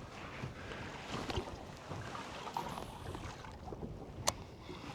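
Water lapping and sloshing against the hull of a small fishing boat drifting at sea, with one sharp click about four seconds in.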